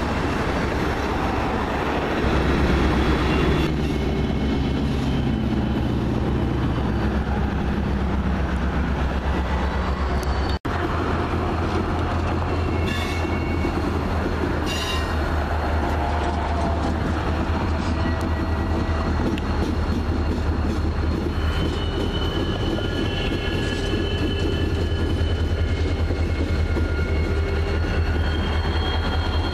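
Freight train passing close by: freight cars rolling over a short bridge, then, after a cut about ten seconds in, CSX diesel locomotives running with a steady low engine hum, with thin high wheel squeal at times.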